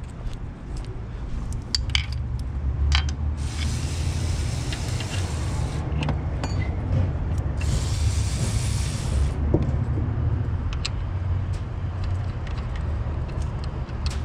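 Two hissing sprays, each lasting about two seconds, one a few seconds in and the other about halfway through. Small metallic clicks and clinks fall around them, over a steady low rumble.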